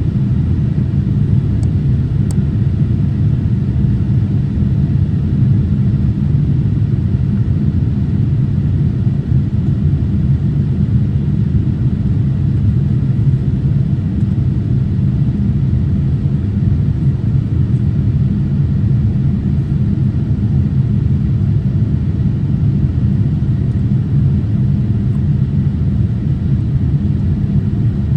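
Steady low rumble of engine and airflow noise heard inside the cabin of a Boeing 787-8 airliner, unchanging throughout, with two faint small clicks about two seconds in.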